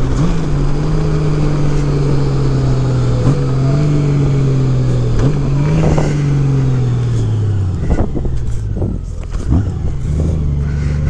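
2018 Honda Gold Wing Tour's flat-six engine heard through modified stock mufflers as the bike decelerates. The engine note holds with a few small steps in pitch, then falls away over a couple of seconds about two-thirds of the way through and settles low.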